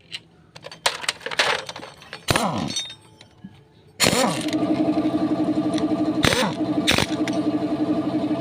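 Metal clicks and clattering knocks, then about four seconds in a steady mechanical running sound starts abruptly and carries on, with a few sharp clicks over it.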